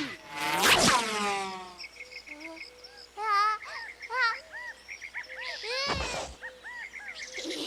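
Cartoon sound effects: a loud whoosh falling in pitch about half a second in, then high chirps and warbling calls, with another whoosh about six seconds in.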